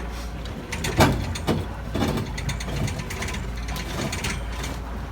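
Metal clanking and rattling as a pickup truck's steel bed is tilted back and lifted off its frame, with sharp knocks about one, one and a half and two seconds in, over a steady low hum.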